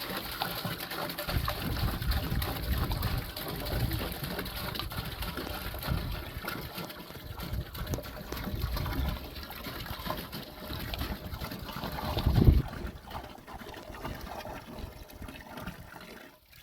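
Water gushing and splashing steadily into a bathhouse water tank as it is filled, with a louder thump about twelve seconds in. The sound cuts off abruptly just before the end.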